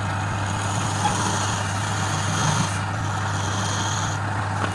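Woodturning lathe running with a steady motor hum while a turning tool cuts the spinning workpiece, giving a high scraping tone from about half a second in to about four seconds in. The hum cuts off abruptly at the very end.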